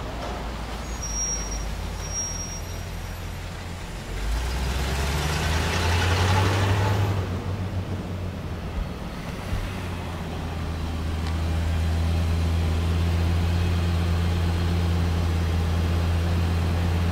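Lexus LFA Nurburgring Edition's 4.8-litre V10 at low revs, moving slowly through street traffic, with a louder rush of traffic noise about five seconds in. From about ten seconds in it settles to a steady, even idle close by.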